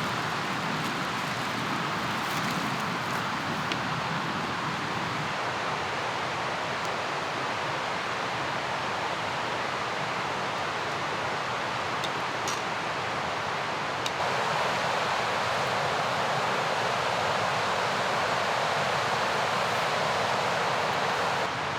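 Mountain river rushing, a steady wash of water noise that steps up a little louder about fourteen seconds in.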